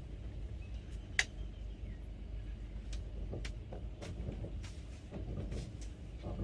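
Moving passenger train heard from on board: a steady low rumble with irregular sharp clicks and knocks, one louder click about a second in.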